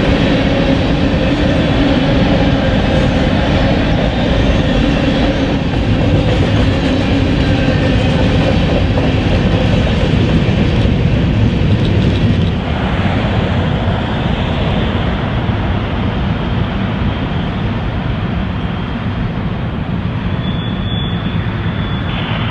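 Covered hopper cars of a freight grain train rolling past: steady noise of steel wheels running on rail. It is a little quieter from about halfway on, as the rear of the train moves away.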